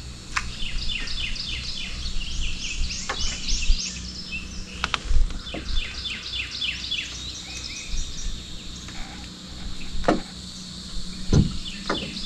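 A songbird singing runs of quick, repeated high notes, three runs spread through the clip, over a low steady hum and a few faint clicks.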